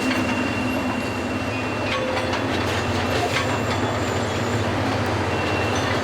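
Track renewal train machinery working at a crawl: a steady low engine drone with a thin high squeal over the first two seconds and a few sharp metallic knocks about two to three and a half seconds in.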